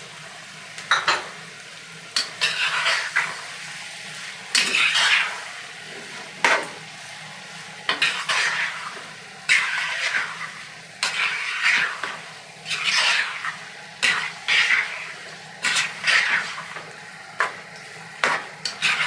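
Chicken pieces and sliced onions frying in ghee in a non-stick pan, stirred with a wooden spoon. Each stroke, about once a second, brings a burst of sizzling hiss and a knock or scrape of the spoon against the pan.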